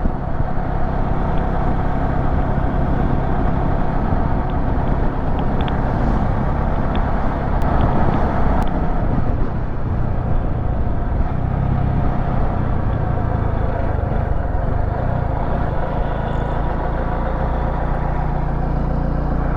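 Road vehicle on the move: a steady engine hum with road and wind noise, unbroken throughout.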